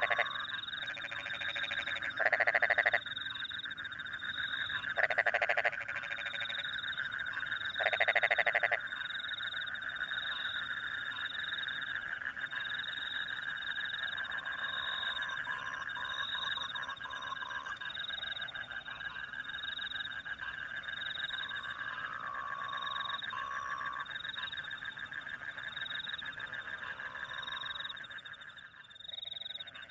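Night chorus of rice-paddy frogs and crickets after rain: a steady dense trilling, with a high chirp repeating about every second and a half. Four louder frog calls stand out in the first nine seconds.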